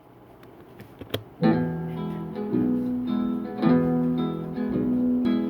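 Solo acoustic guitar playing a slow intro: a few ringing notes and chords, about a second apart, beginning about a second and a half in.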